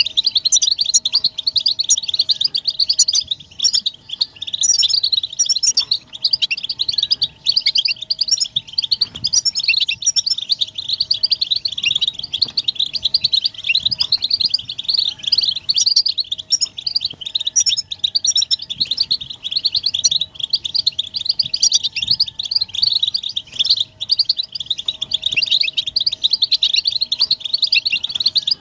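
Several European goldfinches chattering and twittering together in a dense, unbroken stream of quick high chirps and trills: the group mating and readiness calls used to stir a silent male goldfinch into song.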